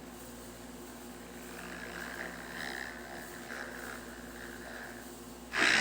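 Motocross dirt bikes running on the race track, heard from a distance as a steady engine drone whose revs waver and swell a little in the middle. A sudden loud noise starts near the end.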